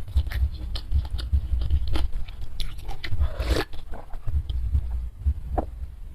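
Close-miked mouth sounds of a person drinking and eating: a string of wet clicks and swallows, with one longer noisy gulp or slurp a little past halfway.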